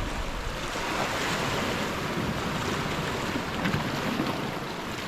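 Sea waves washing on the shore: a steady rushing hiss.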